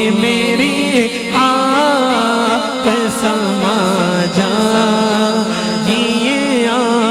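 Male voice singing an Urdu naat, here a long wordless melodic passage with a steady low vocal drone held underneath, processed with an added echo effect.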